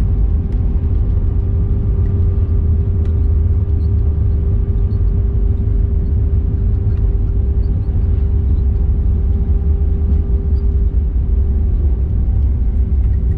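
Steady, loud cabin noise of an Airbus A321-200 on its landing: a deep low rumble with a steady hum over it, unchanging throughout.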